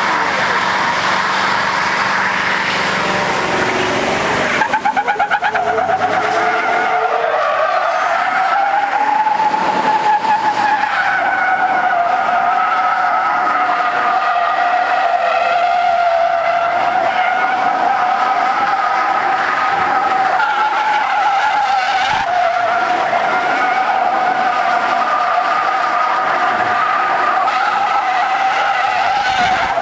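A car's engine revving, then from about five seconds in its tires squeal in one long, wavering screech as the car drifts.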